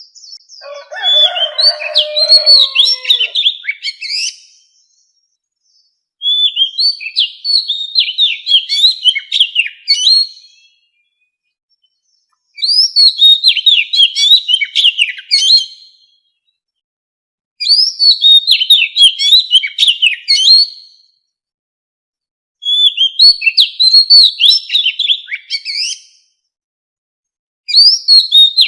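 Oriental magpie-robin singing: phrases of quick, varied whistled notes, each three to four seconds long, repeating about every five seconds with short silent gaps between. The first phrase has a lower-pitched part under it.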